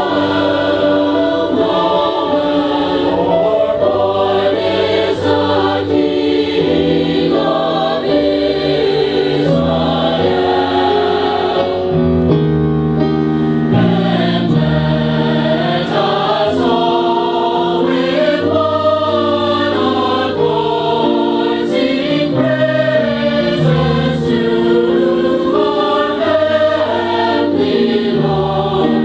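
Community choir singing a Christmas song with accompaniment, several voice parts holding and moving through sustained chords.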